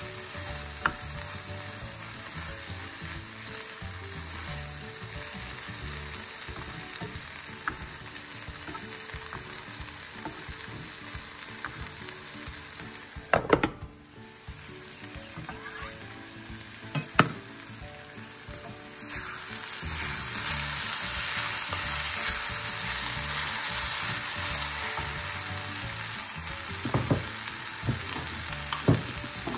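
Water spinach sizzling as it fries in a non-stick saucepan, with wooden-spatula stirring. A glass lid knocks onto the pan about halfway through, and from about two-thirds in the sizzling turns louder and brighter. A few light knocks of the spatula against the pan come near the end.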